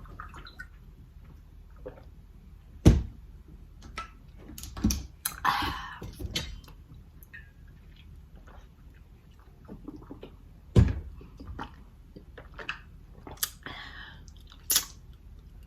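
A person eating: chewing and mouth smacks with pauses between, broken by a few sharp clicks or knocks, the loudest about three seconds in and again about eleven seconds in.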